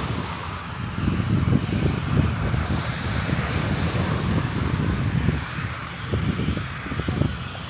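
Jet airliner's engines running loud as it passes low overhead: a rough, crackling rumble with a hiss above it, swelling about a second in.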